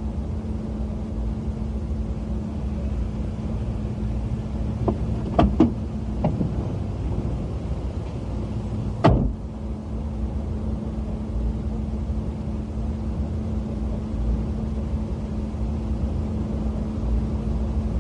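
Car engine idling with a steady low hum, heard from inside the cabin. A few light clicks come about five to six seconds in, and a single louder thud about nine seconds in, as a car door shuts.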